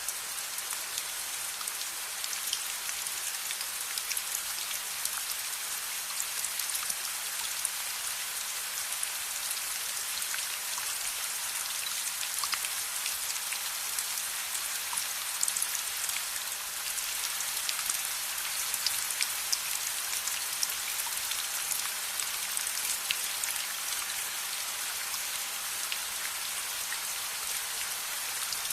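Steady rain falling, an even hiss with many small sharp drip and crackle ticks scattered through it.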